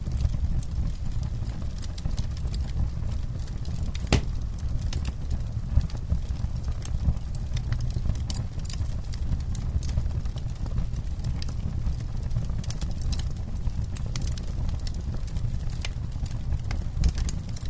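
Campfire crackling: a steady low rumble of burning flames with frequent sharp pops and snaps from the wood, one louder pop about four seconds in.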